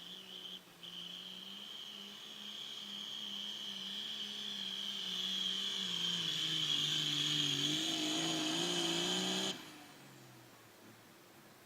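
Turbocharged diesel pulling tractor running hard under load, its turbo whining high and steady over the engine note. It grows louder, the engine pitch sags a little past the middle as it lugs down, and the sound cuts off suddenly near the end.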